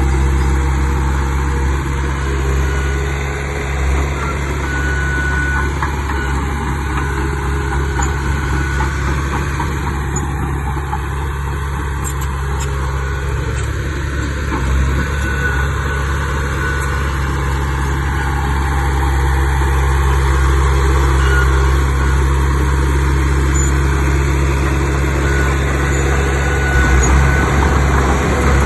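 Heavy diesel engine of earthmoving machinery running steadily with a continuous low hum, dipping a little in the middle and picking up again near the end.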